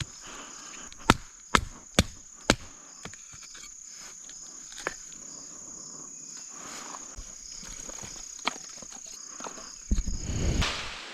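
Four sharp chopping strikes on wood in the first few seconds, over a steady high-pitched insect drone from the rainforest. Near the end the drone stops and a louder rustling noise comes in.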